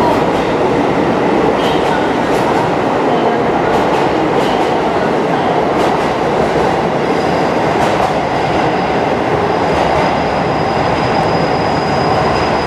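Train running on the station tracks: a steady, loud rumble with scattered clicks, and a thin high whine that comes in about halfway through and holds to the end.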